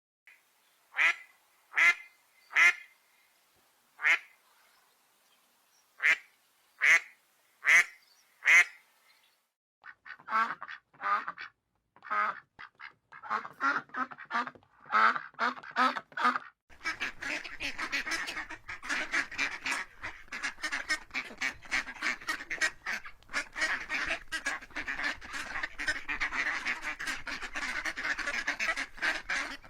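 Ducks quacking: single quacks about a second apart at first, then a quicker run of calls, and from about halfway through a dense flock quacking continuously.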